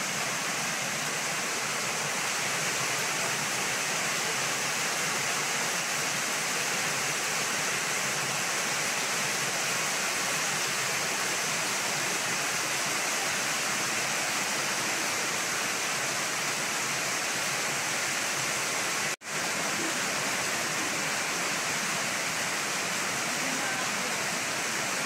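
Heavy rain pouring down, a steady even hiss that drops out for an instant about three-quarters of the way through.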